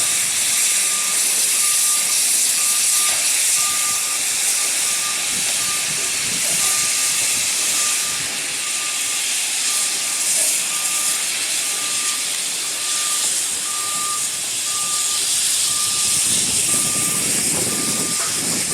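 Steady hiss of steam from a steam locomotive, with a short high beep repeating about twice a second throughout.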